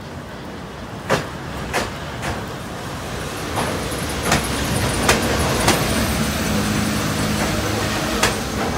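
Electric-locomotive-hauled passenger train pulling slowly alongside a station platform. A rumble of wheels on rail grows louder, broken by about eight sharp clacks as the wheels pass over rail joints. A low steady hum joins about two-thirds of the way through.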